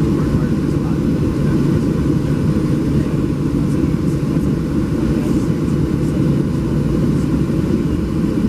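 Boeing 737-700 jet cabin noise from a window seat: a steady, loud, low rumble of the CFM56 engines and airframe.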